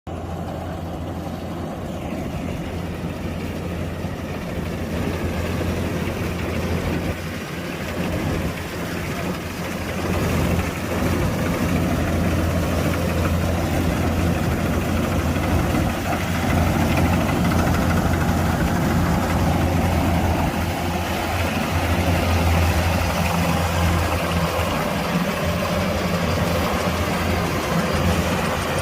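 Kubota DC-105X combine harvester's diesel engine running steadily with a low hum, growing louder about ten seconds in.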